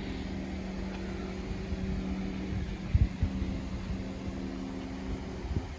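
The 2018 Honda Accord's 2.0 L four-cylinder engine idling, a steady low hum, with a couple of low thumps about three seconds in.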